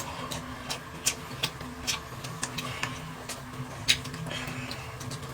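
Tableware clicking during a meal: short, sharp taps about once or twice a second, with a steady low hum underneath.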